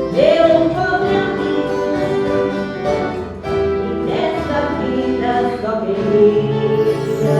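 Voices singing a slow song over the accompaniment of a viola caipira ensemble, with long held notes sung with vibrato.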